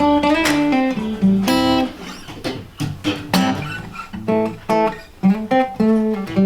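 Guitar playing a run of plucked notes and strummed chords.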